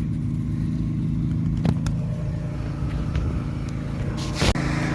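An engine running steadily with a low, even hum, with a brief knock about a second and a half in and a short rustling burst near the end.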